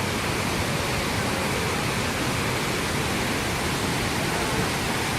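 Waterfall in strong flow: a steady, even rush of falling water.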